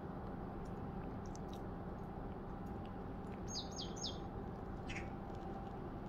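Faint, high bird chirps over a steady background hum: a quick run of three short falling chirps about three and a half seconds in, then one more near five seconds.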